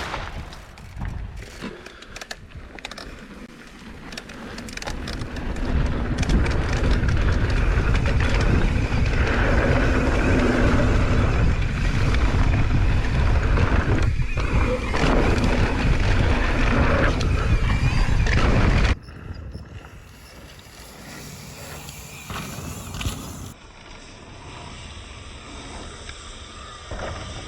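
Wind rushing over a GoPro's microphone and mountain bike tyres rolling on a dirt trail, building as the bike picks up speed and then holding steady and loud. About two-thirds of the way through it cuts off abruptly to a much quieter, thinner sound.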